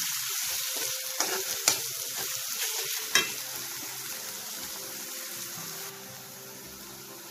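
Crushed green chillies, garlic and sliced onion sizzling in hot oil in a wok as they are sautéed until the raw smell goes, with a steel spoon stirring and knocking against the pan a few times in the first three seconds; the sizzle then goes on a little softer.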